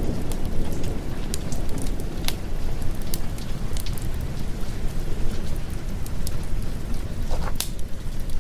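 Steady rain with a deep low rumble underneath, dotted with scattered sharp crackles from a wood fire.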